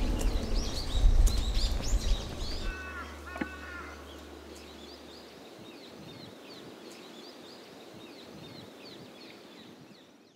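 Small birds chirping over quiet outdoor ambience, with a lower, louder call about three seconds in. A low rumble fades out over the first few seconds, and the whole fades down near the end.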